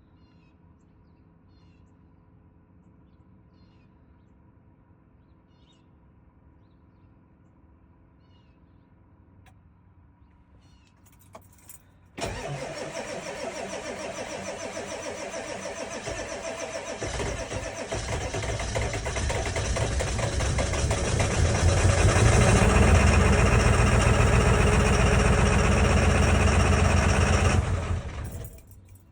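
Early-1999 7.3-litre Power Stroke V8 diesel cold-starting: it catches suddenly about twelve seconds in and runs, growing louder over the next ten seconds, then falls away shortly before the end.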